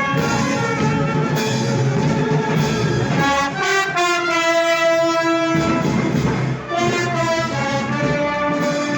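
Brass band playing Moros y Cristianos festival music, with full held chords and a lower accompaniment that drops out briefly midway under one long sustained note.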